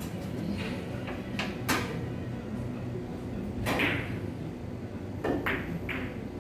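Sharp clicks of carom billiard balls and cue during three-cushion play: a few quick ones in the first two seconds, a louder knock near four seconds in, and three more a little after five seconds.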